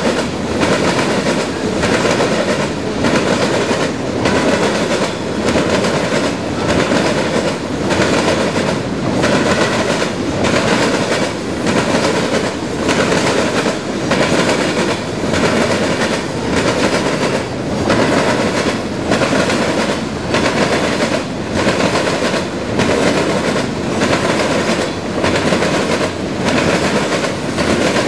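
A CSX freight train's covered hopper cars rolling past at speed: a loud steady rumble of steel wheels on rail with a regular clickety-clack as the cars' wheels cross the rail joints.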